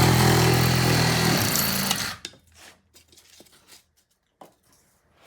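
Reciprocating saw running as it cuts into foam, a steady buzzing motor that stops abruptly about two seconds in. A few faint knocks and scrapes follow.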